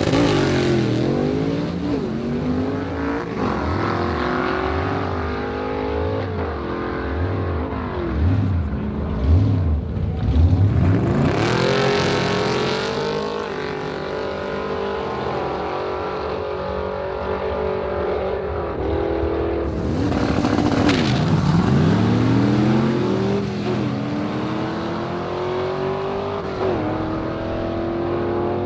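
Race car engine revving hard, its pitch repeatedly falling and rising, then accelerating steadily with two upshifts near the end.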